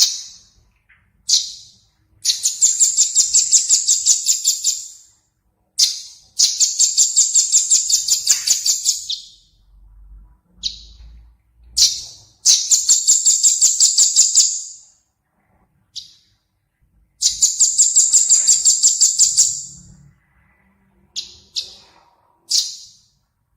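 A small songbird repeating high, fast trills of evenly spaced notes, about six a second, each trill lasting around three seconds, with short single high calls between them.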